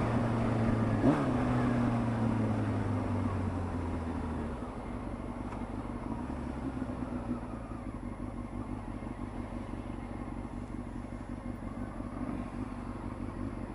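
Honda CBR600 F2 inline-four engine running, its pitch falling over the first few seconds as the revs drop, then settling to a lower, steady run. A single sharp knock about a second in.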